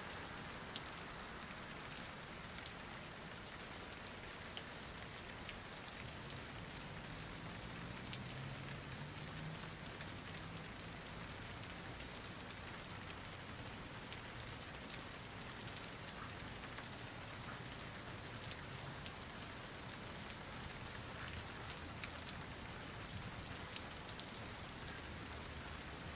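Steady rain falling, an even hiss of rain with scattered sharp ticks of single drops striking.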